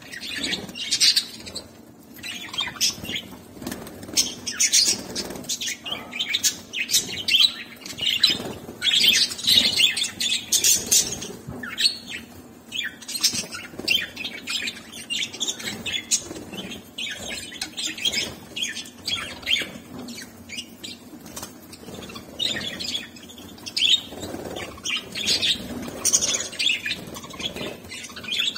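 Budgerigars chirping and chattering continuously in quick, high, short calls.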